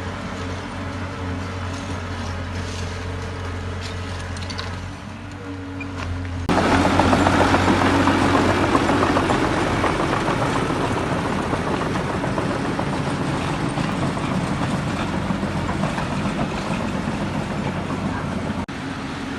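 Diesel heavy earthmoving machinery running with a steady low hum. About six seconds in, a much louder, rougher mechanical noise sets in suddenly and slowly eases off.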